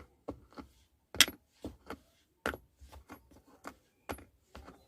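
Loose coins jostled in a car's mat-lined storage tray, giving an irregular string of short, soft clicks and taps, the loudest about a second in. The mat damps the rattle that coins make on bare plastic.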